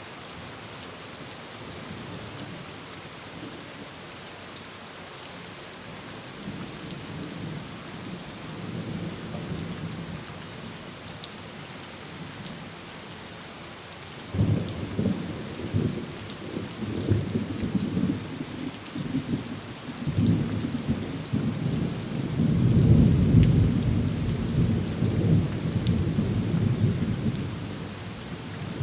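Heavy rain falling steadily on a tin roof, with rolling thunder. A low rumble builds from about a fifth of the way in, breaks in suddenly about halfway, and is loudest a little past three-quarters through.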